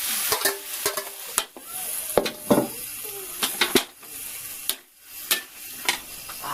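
Zucchini and other vegetables sizzling as they are stir-fried in a hot pan, with a utensil clanking and scraping against the pan many times.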